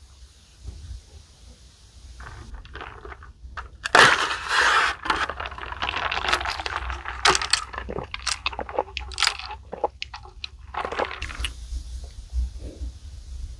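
Close-miked crunching and crackling from handling and eating fast food, irregular sharp crackles with a dense, loud run about four seconds in.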